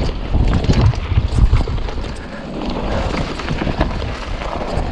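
Wind buffeting the microphone over the rumble and rattle of a mountain bike rolling over rough trail, with scattered knocks.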